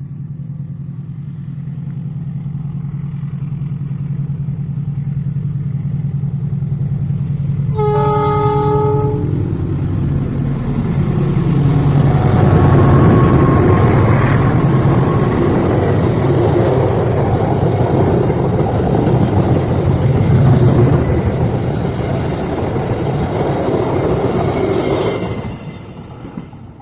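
A KAI CC206 diesel locomotive approaches, its engine drone growing steadily louder. It sounds one horn blast of about a second about eight seconds in. It then passes at speed with loud wheel and rail clatter, which drops away sharply near the end.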